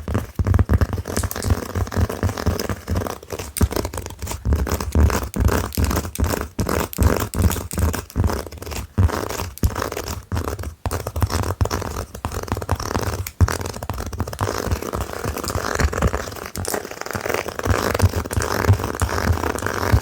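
Long fingernails tapping and scratching fast and hard on a slipper: a dense run of quick clicks and rubbing scrapes with dull thumps, turning to more continuous scratching near the end.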